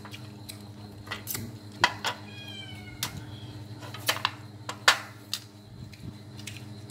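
A cat meows once, a drawn-out call about two seconds in, among sharp clicks and knocks of tableware at a meal, over a steady low hum.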